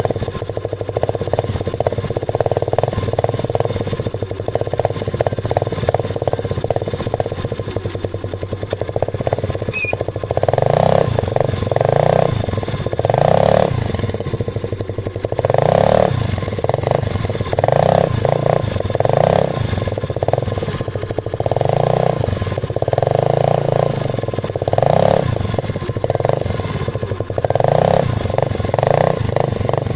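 Yamaha Mio Sporty scooter's single-cylinder four-stroke engine breathing through a homemade tin-can muffler with nothing inside, idling steadily and then given a quick run of short throttle blips, about one every one and a half to two seconds, each rising and falling back to idle.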